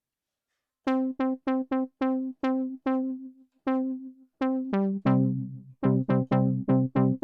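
Synthesized brass patch built from a low-pass-filtered sawtooth wave in Logic Pro's RetroSynth, playing short punchy notes. The notes repeat on one pitch, then from about five seconds in move to lower notes and chords.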